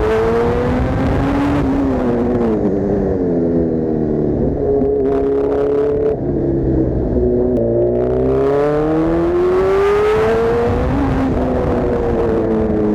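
Kawasaki Z1000's inline-four running through an Arrow full-system exhaust, accelerating under way. The engine note climbs and drops back several times as gears change, rises hard about two-thirds of the way through, then falls away as the throttle eases near the end.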